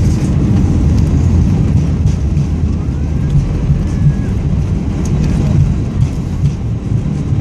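Steady low rumble inside the cabin of an Airbus A320, its engine and airflow noise heard from a window seat.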